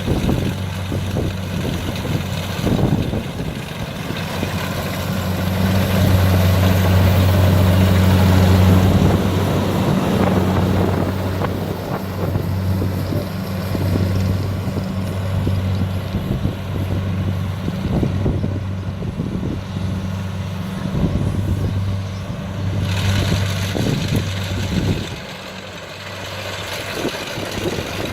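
Kubota DC60 combine harvester running steadily with a deep, even engine hum. It grows louder about five seconds in, eases after about ten seconds, and drops off somewhat near the end.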